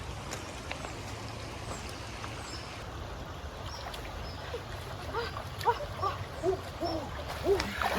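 Flowing river water running steadily, with faint high bird chirps. From about five seconds in, a bird gives a series of about eight low hooting notes.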